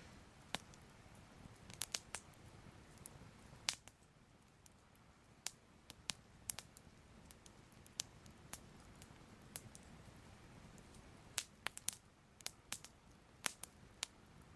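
Soft crackling fire: irregular sharp pops and snaps, now single, now in quick little clusters, over a faint low hiss.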